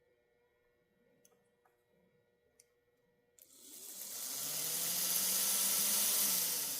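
Athearn Dash 8-40B model locomotive running along the track, its small electric motor and gears whirring with a low hum. After a few faint clicks it starts about three and a half seconds in, builds, and eases off near the end.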